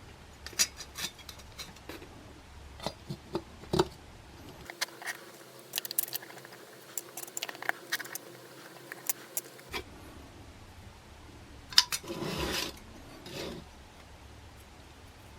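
Light clicks, taps and scrapes of small metal parts being handled, with a short rustle about twelve seconds in.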